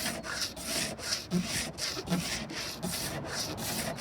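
Knife blade held like a scraper, drawn over a plastic boat hull in short repeated strokes, about two to three a second, shaving off the scratched, fluffy top layer of plastic.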